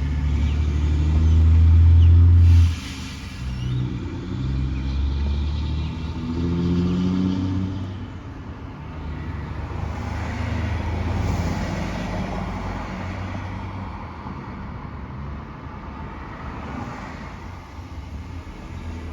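Heavy truck engine running with a deep rumble. It is loudest for the first couple of seconds, drops off sharply, then rises and falls at a lower level for the rest.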